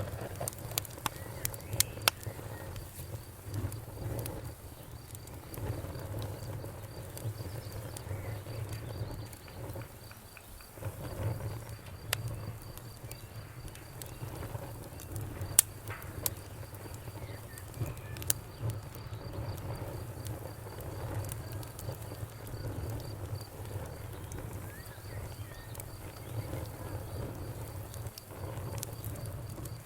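Wood fire crackling in a fireplace: irregular sharp pops and snaps over a low steady rumble of the flames, with a louder snap about fifteen seconds in.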